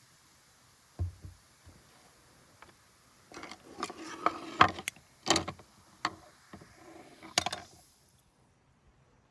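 Handling sounds: a single knock about a second in, then a busy stretch of irregular clicks, clatter and rustling that stops a little before the end.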